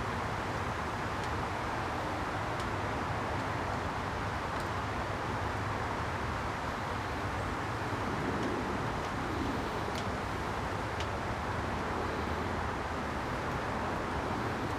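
Steady rushing background noise with a low hum, like road traffic, with a few faint light clicks of small parts or tools being handled.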